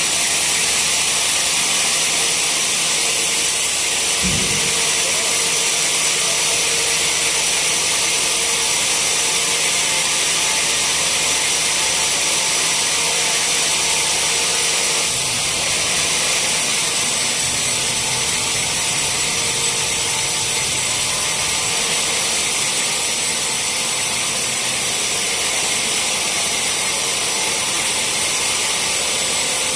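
Sawmill saw cutting steadily through a teak log, a continuous loud, hissing cut with a brief low thump about four seconds in.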